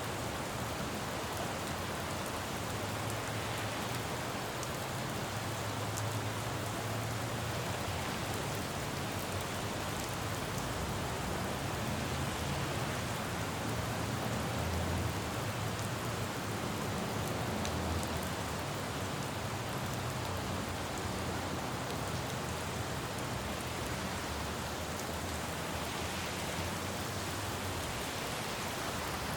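Steady rain falling on a city road, with a low rumble of traffic that swells and fades underneath it.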